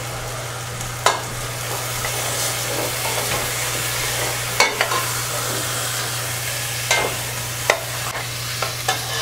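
Browned ground beef and vegetables sizzling in a steel pot on a gas range as diced tomatoes are added and stirred in, with a few sharp knocks of the spoon against the pot. A steady low hum runs underneath.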